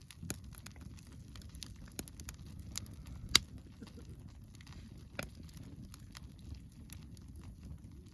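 Wood campfire crackling, with irregular small pops and two sharper snaps, the louder about three and a half seconds in and another past five seconds.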